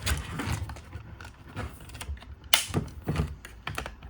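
Plastic side-panel clips of a Jura ENA 8 brew unit being unclipped: a few sharp plastic clicks amid handling of the part, the loudest about two and a half seconds in.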